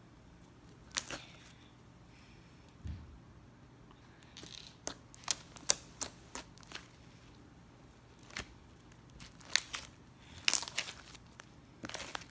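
Slime being worked by hand, making scattered sharp clicks, pops and crackles, more frequent in the second half.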